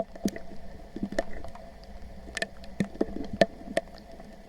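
Footsteps on wet, muddy ground: short irregular squelches and clicks over a faint steady hum.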